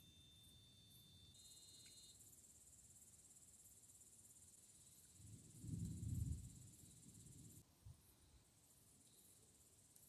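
Insects chirring steadily in a high band. A low, distant rumble of thunder swells up about five seconds in and fades out after about two seconds.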